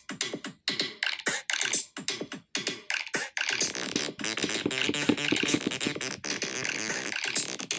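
Electronic synthesizer music played on iPhones: short, choppy stabs at first, then from about halfway a fuller, steadier stream of synth notes over a beat.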